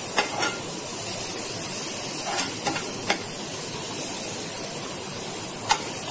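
Onion and tomato masala sizzling in a nonstick pan while it is stirred with a slotted metal spatula, the spatula tapping and scraping on the pan a few times, the sharpest tap near the end.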